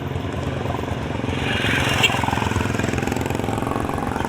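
Street traffic with a motor vehicle engine running close by. It grows louder through the middle, and there is one sharp click about two seconds in.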